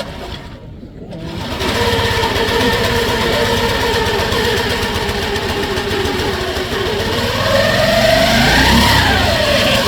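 Yamaha two-stroke four-cylinder racing motorcycle engine firing about a second in and running steadily. Near the end the revs rise and fall as it is blipped.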